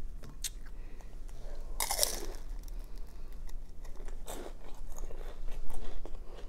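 Crunching and chewing on a crispy fried vegetable spring roll, a series of short crunchy bites with the loudest about two seconds in.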